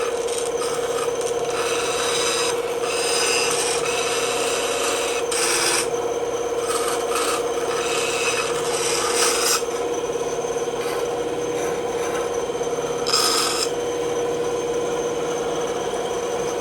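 A bandsaw running with a steady hum while its blade cuts through wood, the rasping of the cut rising and falling as the piece is fed and turned, with louder stretches several times.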